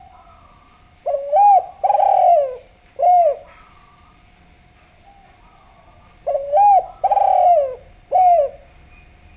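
Spotted dove (derkuku/tekukur) cooing: two phrases of three loud, bending coos, about five seconds apart, with fainter coos between them over a faint steady tone.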